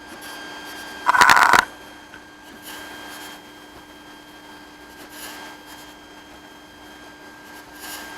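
3D printer running mid-print, its motors giving a steady whine at a few fixed pitches, with a loud brief rattle about a second in and softer swishes of movement later.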